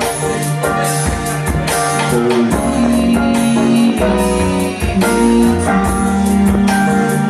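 Live band music: sustained pitched notes over a bass line, with regular drum hits keeping a steady beat.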